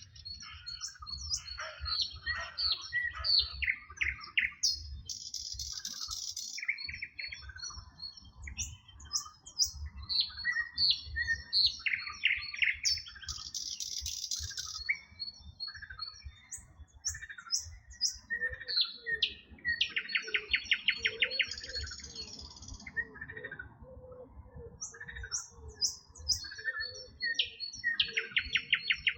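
Several songbirds singing and chirping together, with overlapping whistles, short chirps and fast buzzy trills. From about two-thirds of the way in, a lower call repeats steadily beneath them.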